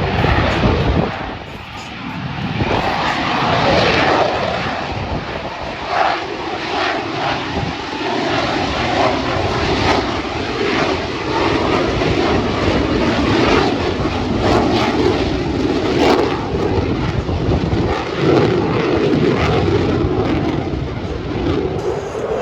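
Loud, continuous aircraft engine noise from an airplane flying in an airshow display, swelling and easing with a brief dip near the start.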